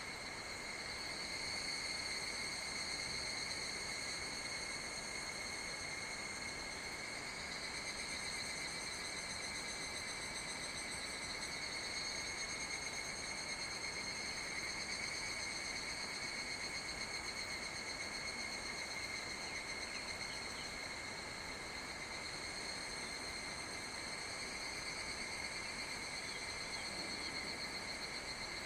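Chorus of summer insects making a steady, high, unbroken buzzing drone, over a faint even hiss.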